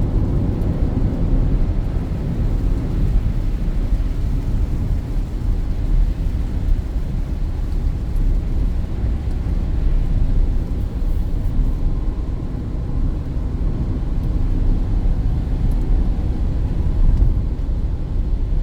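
Steady low road rumble heard inside the cabin of a Peugeot 2008 climbing at speed: engine and tyres running on wet asphalt.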